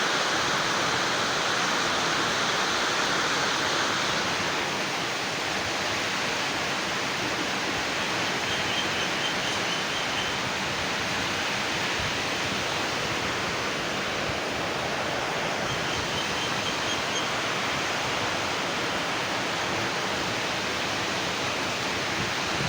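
A steady rushing hiss, a little brighter for the first few seconds, with two faint short trills, one near the middle and one later.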